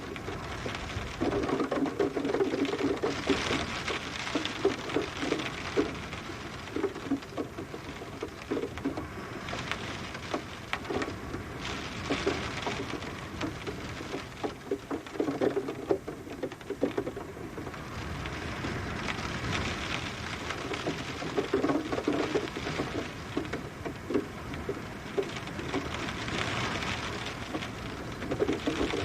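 Steady rain with dense, irregular pattering of drops on a surface, swelling and easing every few seconds.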